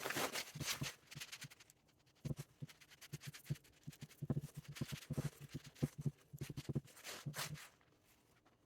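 Lathe headstock feed output shaft and its bearing housing being fitted together by hand: light, irregular metal knocks and clicks as the lubed shaft goes into its new bushes, dying away near the end.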